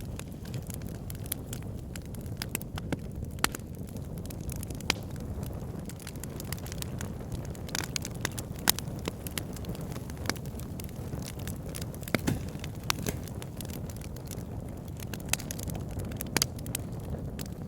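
Campfire burning with a steady low rumble and frequent irregular crackles and sharp pops.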